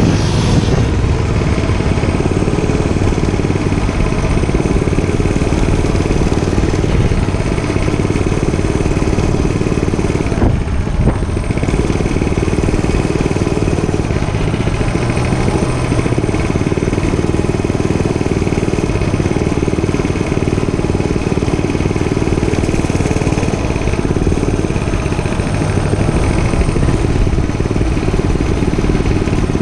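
Dirt bike engine running steadily, with a brief drop about ten and a half seconds in.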